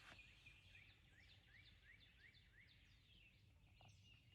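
Faint outdoor background with a small bird calling: a quick run of short, high, rising chirps, about two or three a second.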